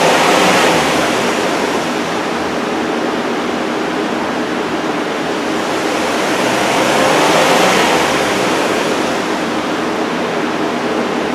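Steady rushing of large shop fans, loud enough to cover a running engine, swelling twice: about half a second in and again around seven seconds in.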